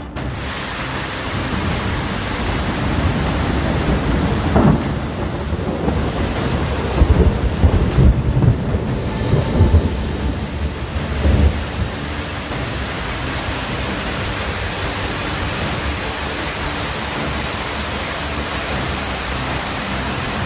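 Heavy rain falling steadily during an electrical storm. About four and a half seconds in a thunderclap cracks, and thunder rolls in low rumbles for several seconds before the rain is heard alone again.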